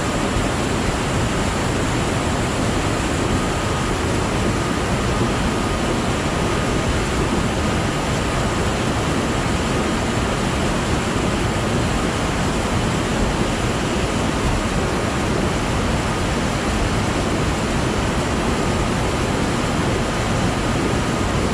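Steady, loud rush of fast-flowing water in spate, an unbroken noise with no break or change.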